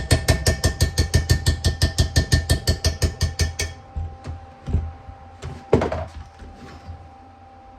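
Rapid, even hammer strikes on steel, about five a second and ringing, stopping about three and a half seconds in. A few lighter metal clanks follow, with one louder knock near six seconds.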